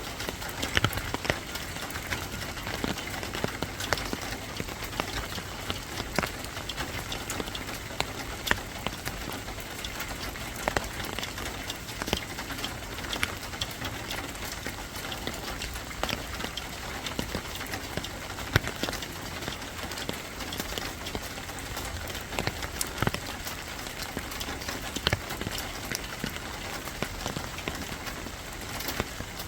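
Steady rain falling, with many individual drops striking a hard surface as sharp, irregular ticks over an even hiss.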